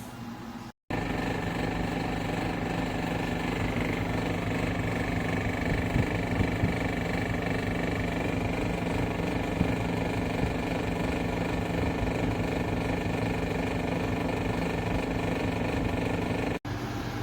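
Portable air conditioner running: a steady mechanical hum with a thin high whine over it. It starts abruptly about a second in and stops abruptly near the end.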